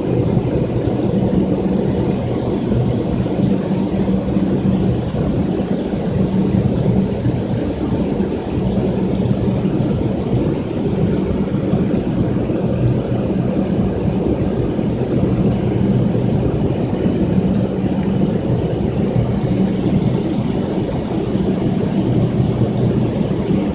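Steady cabin noise inside a McDonnell Douglas MD-82 airliner: the rear-mounted Pratt & Whitney JT8D turbofans and the airflow make an even, loud rumble, with a low hum that swells and fades every few seconds.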